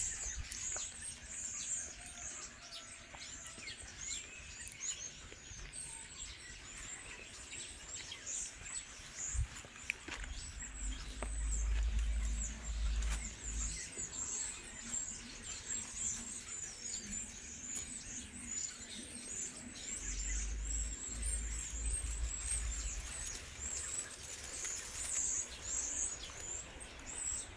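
Small birds chirping and twittering throughout, with two spells of low rumble on the microphone, the first about ten seconds in and the second about twenty seconds in.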